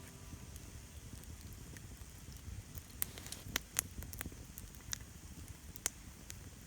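Wood campfire burning with a steady low rumble, broken by sharp crackling pops, about six of them in the second half.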